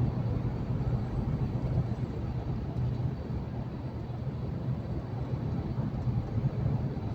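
Truck engine and road noise while cruising at a steady speed: an even low drone with no change in pitch.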